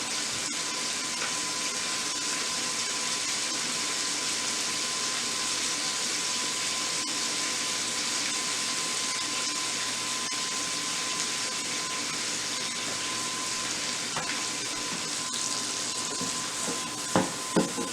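Mushrooms sizzling steadily in a pan of butter and olive oil as their juice cooks off. A faint steady high tone runs underneath, and a couple of short knocks come near the end.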